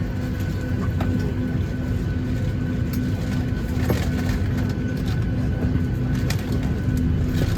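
Cabin noise inside a Boeing 737-800 during pushback: a steady low rumble with a pulsing hum and a thin steady whine over it, and a few light clicks.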